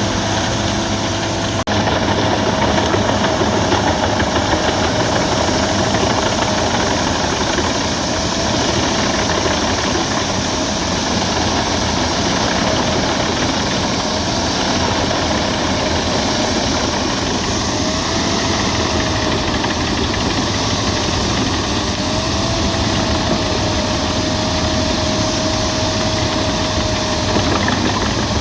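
Albach Diamant 2000 wood chipper running steadily under load while chipping branches, a dense mechanical noise with a steady, slightly wavering hum.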